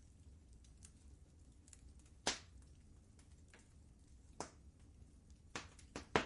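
Wood fire crackling in a fireplace: scattered sharp pops and snaps over a low steady rumble, the loudest pop a little over two seconds in and a quick cluster of pops near the end.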